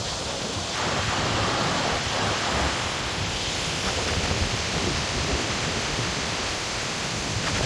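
Wind rushing across the microphone as a steady hiss on an exposed mountain summit, growing a little louder about a second in.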